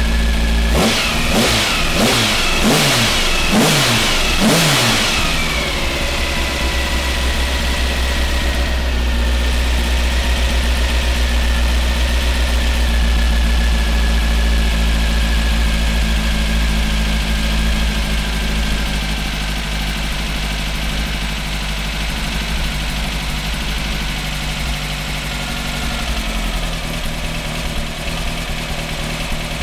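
A 2276 cc air-cooled VW Type 1 flat-four, with twin Weber 48 IDF carburettors, an Engle W120 cam and a CSP Super-Competition stainless-steel exhaust, is blipped sharply several times by hand at the throttle in the first five seconds. It then settles to a steady idle.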